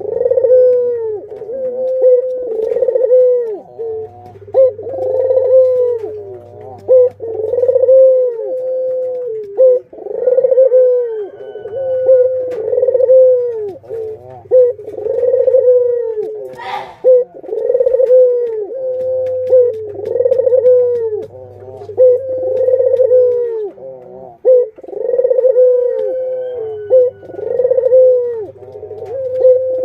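Barbary dove (ringneck dove) cooing over and over, one rolling coo about every one to two seconds. A sharp click sounds about halfway through.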